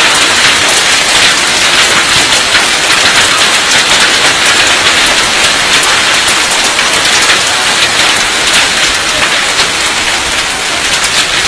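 Heavy rain with hail falling: a loud, steady hiss dotted with many sharp ticks.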